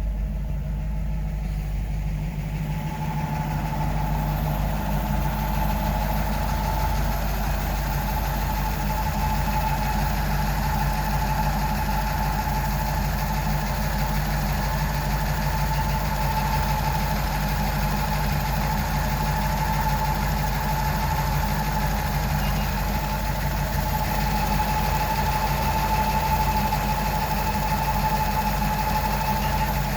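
1941 Buick Limited's straight-eight engine idling steadily, getting a little louder about three seconds in.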